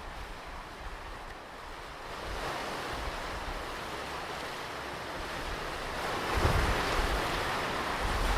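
Ocean waves on a beach: surf washing in and building to a louder break near the end, with low wind buffeting on the microphone.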